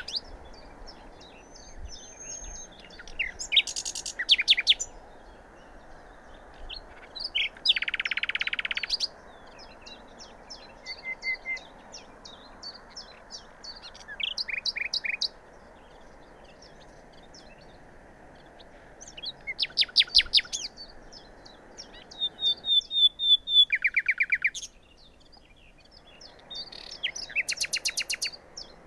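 Small songbirds chirping and trilling in repeated bursts, several louder trills standing out, over a steady background hiss.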